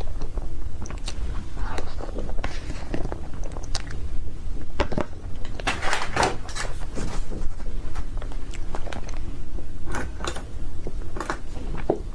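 Close-miked chewing and biting of cake: irregular short mouth clicks and smacks, bunched most densely about six to seven seconds in and again near the end.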